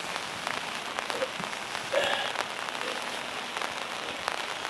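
Steady rain pattering on the boat's canvas bimini top, with many separate drops ticking sharply through the even hiss.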